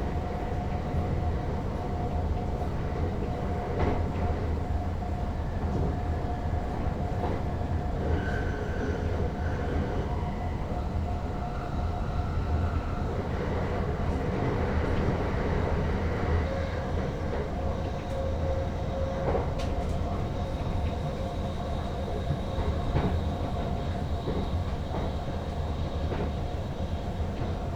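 NS Sprinter Lighttrain (SLT) electric train running along the track, heard from the driver's cab: a steady rumble with a thin steady whine and a few clicks from the wheels.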